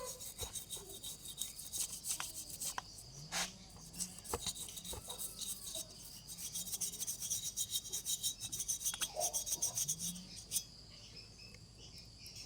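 Quick scraping and rubbing strokes with scattered clicks and taps, denser from about the middle on, over a steady high insect drone.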